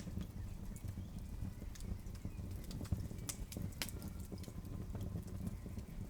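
Campfire crackling: irregular sharp pops and snaps, a few louder ones midway, over a low steady rumble.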